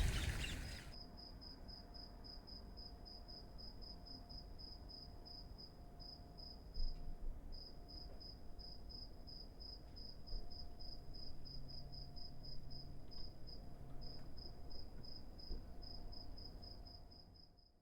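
A cricket chirping steadily: a high, evenly repeated chirp, about four or five pulses a second.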